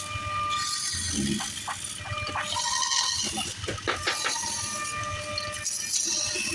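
Wood lathe running: a steady motor whine with the hiss and scrape of a turning tool cutting the spinning wood, and scattered small knocks.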